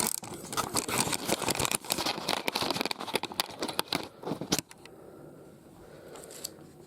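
Paperback comic book pages being turned and handled: a run of crisp paper rustling and crackling that dies down after about four and a half seconds.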